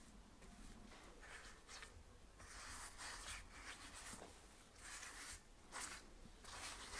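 Faint hand scrubbing or rubbing strokes, a series of irregular back-and-forth passes that grow louder in the second half.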